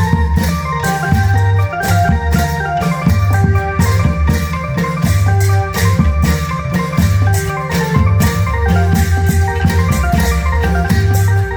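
Loud Thai klong yao band music played through a large PA sound system: a heavy bass line under steady, evenly spaced drum and cymbal beats, with a bright melody on top.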